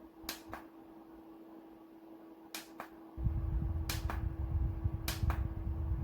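Four double clicks, each a press and a release of a small plastic button, about a second or two apart, over a faint steady hum. About three seconds in, a low rumble starts suddenly and keeps on, like fan air blowing across the microphone.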